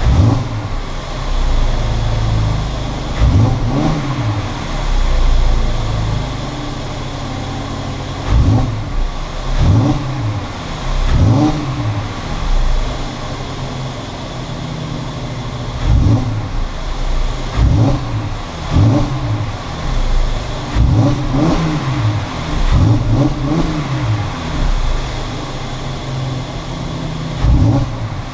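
Mercedes-Benz C350 (W204) 3.5-litre V6 exhaust being revved in quick blips, about a dozen times, each rising and falling back to idle. The car idles steadily in between, with longer idle stretches after the first few seconds and around the middle.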